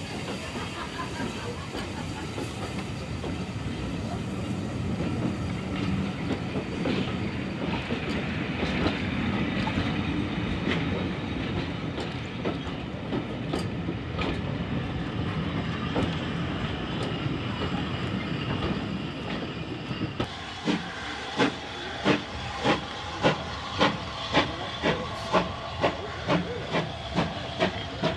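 Steam locomotive working: first a steady rumbling hiss, then about 20 seconds in, regular exhaust chuffs begin and quicken from about one and a half to two beats a second as it gathers speed.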